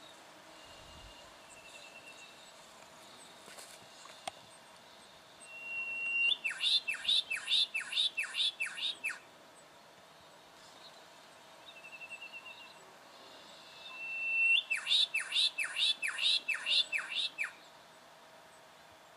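A bird calling twice, each phrase a short held whistle followed by about seven quick, sharply descending notes, with a faint quick trill a few seconds before each phrase.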